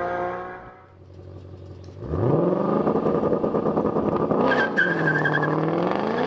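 Car engine revving hard under acceleration. Its pitch climbs, dips about three seconds in, then climbs again, with a thin high whine over it. In the first second the tail of another engine sound fades out.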